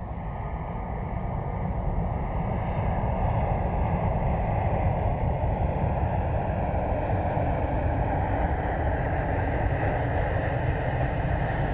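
Jet aircraft engines, a steady roar that builds over the first few seconds and then holds, with wind buffeting the microphone.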